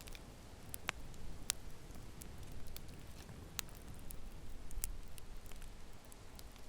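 Wood fire crackling in a fireplace: irregular sharp pops and snaps, a few much louder than the rest, over a low steady rumble of the burning fire.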